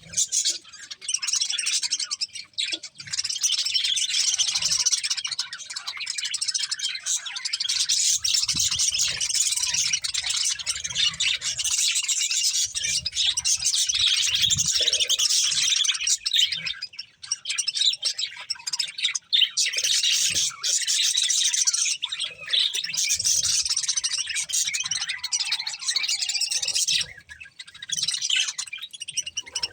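Budgerigars chirping and chattering in a dense, continuous high-pitched twitter, with a couple of brief pauses.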